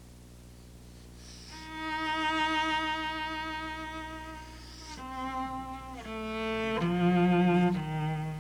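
Solo cello playing a slow phrase with vibrato: one long held note, then four notes stepping downward, the loudest near the end.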